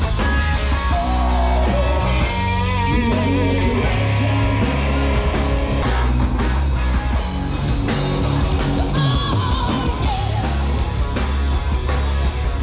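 Rock music with electric guitar, drums and a singing voice over a steady heavy bass beat.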